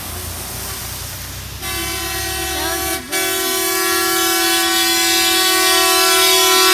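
Truck horn sounding a long held blast that starts about a second and a half in, breaks off briefly near three seconds, then sounds again and grows louder. A low engine rumble runs underneath in the first half.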